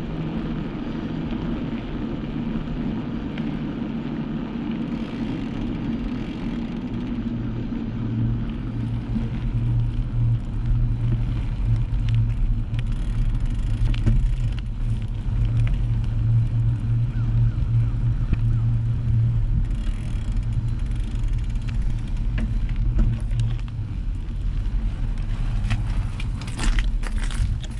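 Steady low rumble of a vehicle in motion, road and wind noise, growing louder about eight seconds in, with a few sharp clicks near the end.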